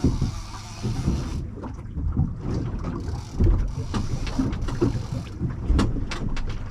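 Wind buffeting the microphone on a small boat at anchor, with water slapping against the hull, uneven low rumbling throughout. There are two stretches of hiss, and a few sharp clicks near the end.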